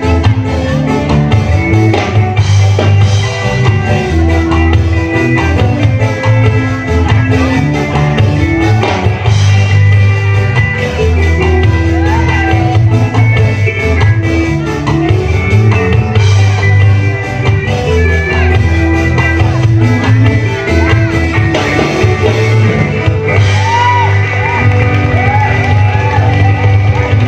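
A band playing a rock song, with a singing voice over a steady bass line.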